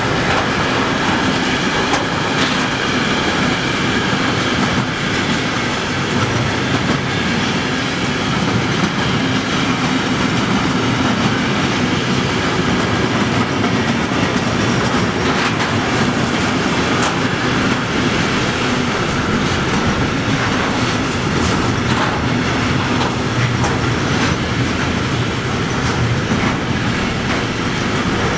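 Container freight train passing at speed: a steady rolling rumble and rush from the loaded wagons' wheels on the rails, with occasional sharp clacks over rail joints.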